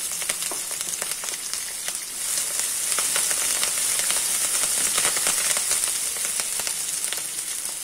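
Freshly added curry leaves and chopped onion sizzling and crackling in hot oil in a kadai as a wooden spatula stirs them, with a dense patter of small spattering pops over a steady hiss that grows a little louder about two seconds in.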